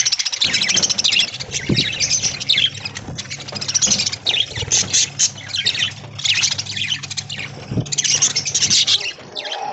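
A flock of budgerigars chattering and squawking together, many overlapping rapid chirps with no pause.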